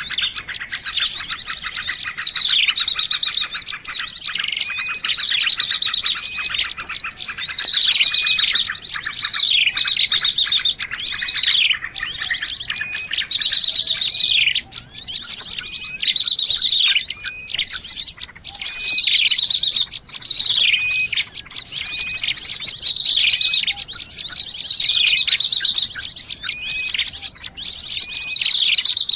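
Bird-lure recording of small songbirds: dense, high chirping and rapid trills in short phrases that repeat over and over, used to call small birds in.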